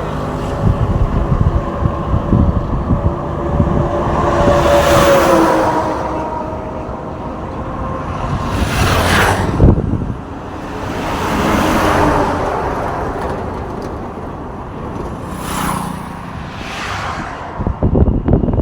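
Road traffic: vehicles passing one after another, about five swells of engine and tyre noise that rise and fall, over a steady low rumble. There is a sharp thump just before the middle.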